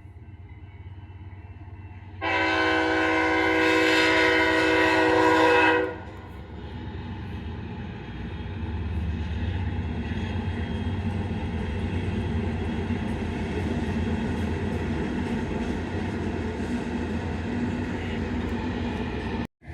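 Diesel locomotive's air horn sounding one long blast of several tones together for about three and a half seconds, over the low rumble of the train. After the horn, the train keeps rumbling steadily as it passes.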